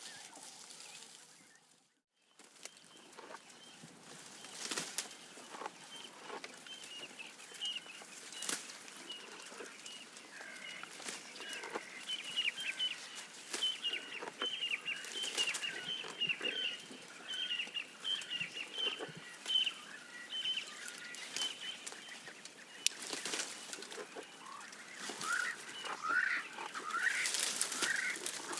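Giraffe browsing, with scattered crackles and snaps of leaves and twigs being stripped. Birds chirp in a quick repeated series through the middle, and rising chirps come in near the end.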